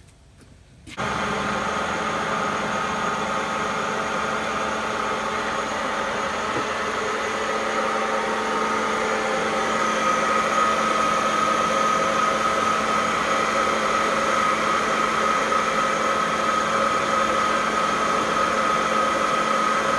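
An engine running steadily, cutting in suddenly about a second in and holding an even hum with a faint whine that grows slightly louder.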